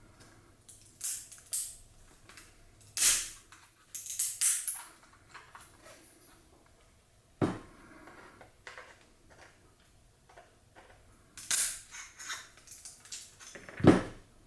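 A thick plastic screw-down card holder being cut and broken open with a hand tool: irregular cracks, snaps and scrapes of the plastic, with a loud knock about seven seconds in and another near the end.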